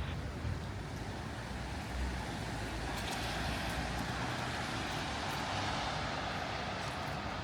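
Tyre hiss of a car passing on a wet street, swelling in the middle of the stretch over a steady wash of wet traffic noise.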